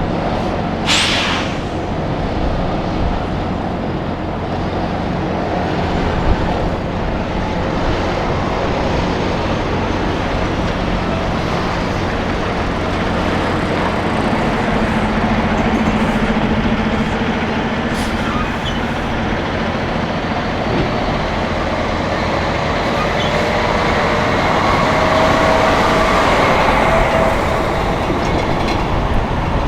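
Heavy diesel trucks running past in steady traffic, with a short air hiss about a second in. The sound swells again toward the end as another truck approaches.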